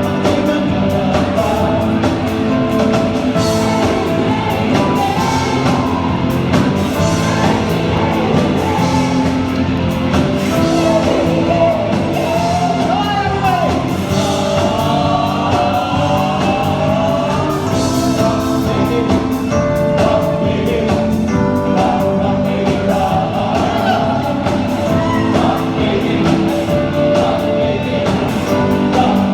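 Live band playing a disco-rock song with singing and a steady beat, amplified through a PA in a hall.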